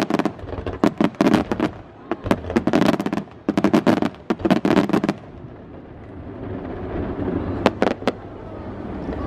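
Aerial fireworks bursting in a rapid volley of sharp bangs for about five seconds, then a lull with two more bangs near the end.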